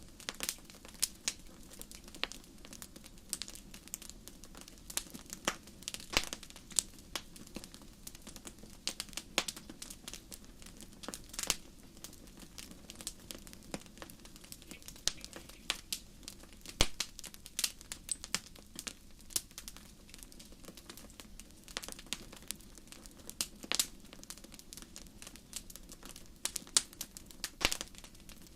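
Wood fire crackling: irregular sharp pops and snaps, several a second, over a steady low rush.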